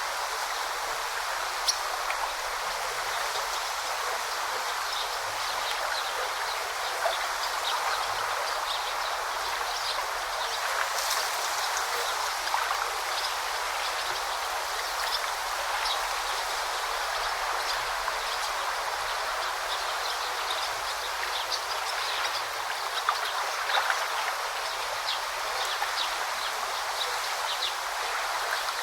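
Forest stream babbling steadily over stones, with many short, high ticks scattered through the flow.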